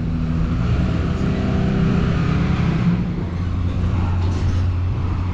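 Motor vehicle engine running close by, a steady low hum that shifts in pitch about three seconds in.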